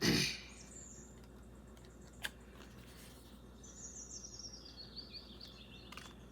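A bird singing in the background: a run of quick high chirps falling in pitch over about two seconds, near the end. A brief burst of handling noise at the start and a single click about two seconds in.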